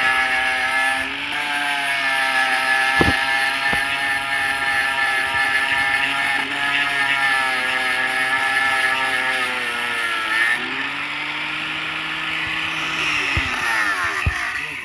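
An engine running steadily, its pitch dipping and then climbing again about ten seconds in, with a few sharp knocks over it.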